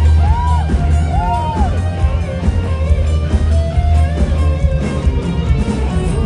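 Rock band music in an instrumental passage, with electric guitar bending notes up and back down in the first second or two over steady bass and drums.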